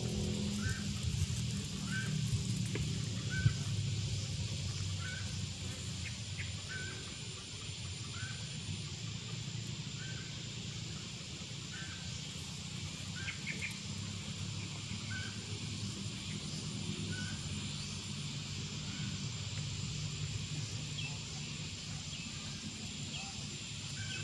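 A bird repeating a short high chirp about once a second, over a low steady hum.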